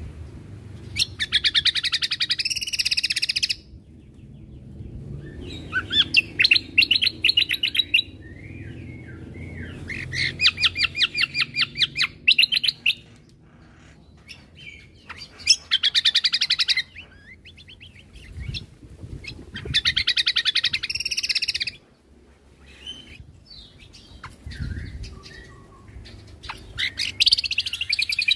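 Cucak kombo (kecial kombo) songbird singing in energetic bouts of fast, rattling repeated notes. There are about six bursts, each one to three seconds long, with short pauses between them.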